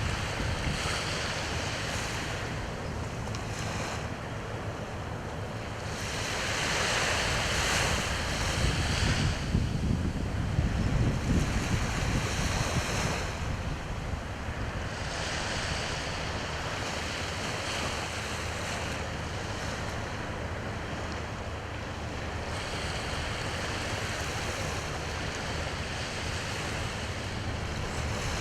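Sea waves washing onto the shore in slow swells, one surge louder a quarter of the way in, with wind rumbling on the microphone.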